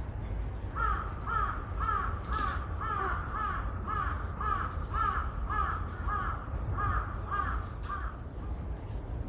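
A bird calling a rapid, even series of about fourteen short cawing notes, roughly two a second, stopping about eight seconds in. A brief higher chirp comes near the end, over a steady low rumble.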